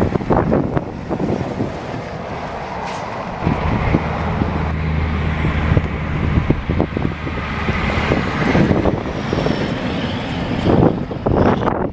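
Dump truck engine running, with a steady low engine note through the middle and scattered knocks and clatter.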